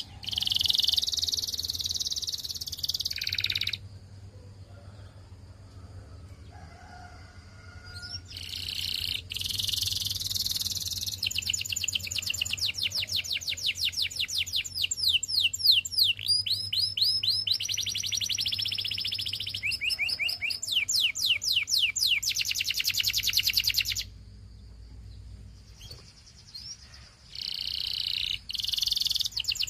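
Canary singing in long phrases of rapid, evenly repeated trills and sweeping notes, broken by pauses of a few seconds about 4 s and 24 s in.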